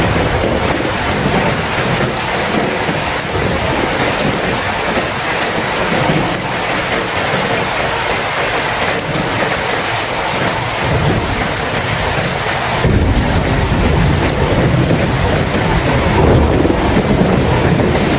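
Steady heavy rainfall hissing, with a low thunder rumble that swells up about two-thirds of the way through and carries on to the end.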